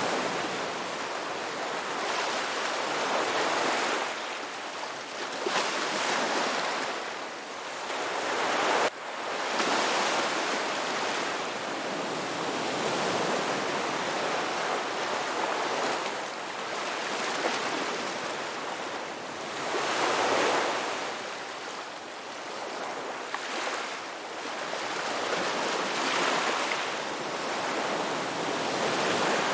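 Sea waves breaking and washing ashore: a continuous rushing surf that swells and eases every few seconds, with a brief sudden drop about nine seconds in.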